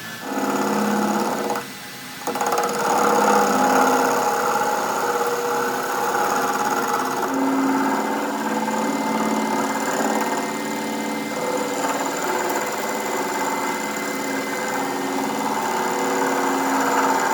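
A workshop machine running steadily with a pitched hum. It drops away briefly about two seconds in, then carries on.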